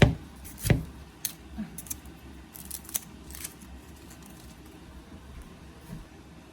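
Kitchen knife chopping on a cutting board, trimming the fruit away from a pineapple crown: two sharp chops in the first second, then lighter clicks and taps until about three and a half seconds in.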